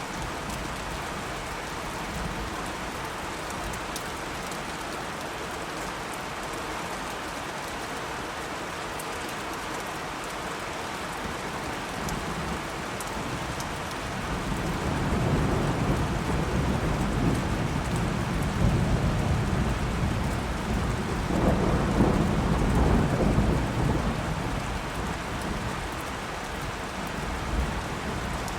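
Steady rain falling, with a long rolling thunder rumble that builds about halfway through, swells twice and dies away near the end.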